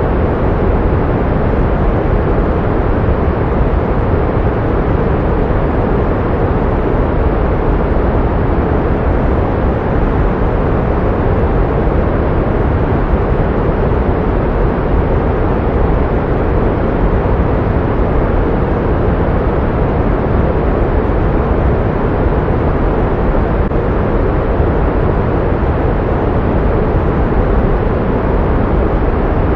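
Pink noise: a steady, even hiss weighted toward the low end, with no change or events.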